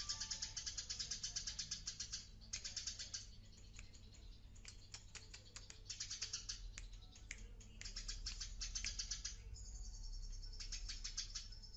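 Eurasian tree sparrow chirping busily in runs of quick, rapid chirps with short pauses between, and a brief held high note near the end.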